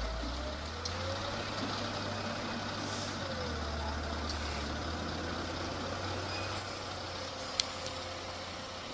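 Engine of a heavy work machine running steadily with a constant low hum, with a few light clicks and one sharp tick near the end.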